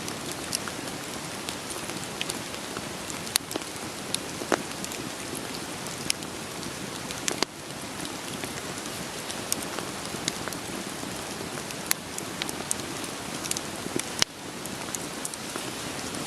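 Steady rain falling, with scattered sharp pops and crackles from a wood campfire. The level dips briefly twice, about seven and fourteen seconds in.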